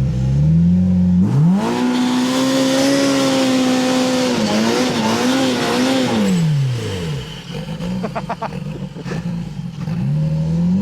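Polaris RZR Pro R's turbocharged four-cylinder engine revved hard about a second in and held at high revs for a few seconds, wavering, then dropping back near the end as the side-by-side tries to power through deep packed snow and bogs down, stuck.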